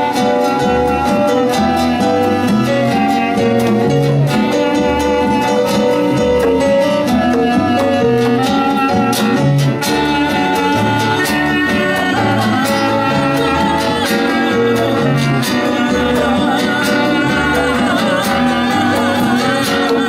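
Live band playing a Latin song, with melody lines over a steady bass beat.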